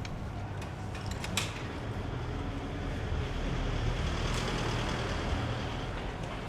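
A road vehicle passing by, its engine and tyre noise swelling over a few seconds and then fading, over a steady low rumble of wind on the microphone.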